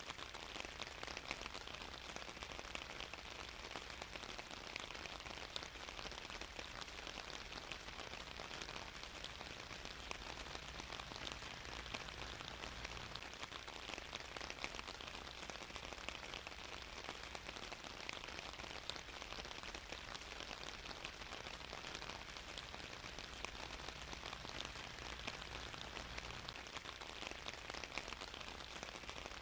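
Steady rain falling on a surface, an even hiss of many fine drop ticks.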